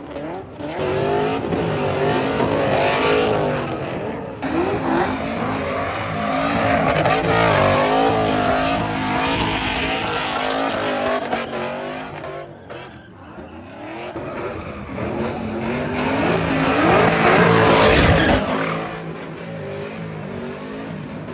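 Vehicle engine revving hard again and again, its pitch rising and falling, over the noise of spinning tyres during a burnout. There is a brief lull in the middle and the loudest surge comes near the end.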